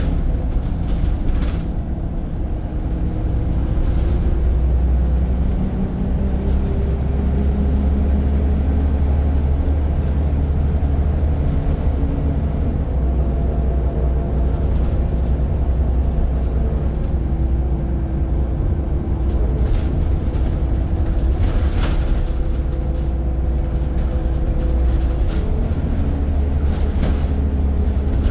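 Scania N94 single-decker bus under way, heard on board: a heavy low engine rumble whose note shifts up and down as the bus changes speed, with scattered rattles and knocks from the body, the loudest about two-thirds of the way through.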